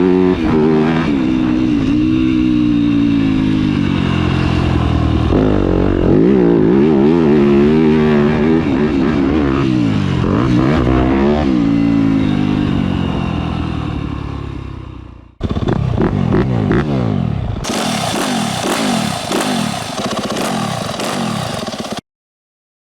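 A 2021 Yamaha YZ250F's single-cylinder four-stroke engine breathing through a Yoshimura RS-12 full exhaust system, ridden hard, its loud note climbing and falling with the throttle and gears. About fifteen seconds in it fades and cuts out, then comes back rougher and choppier before stopping abruptly near the end.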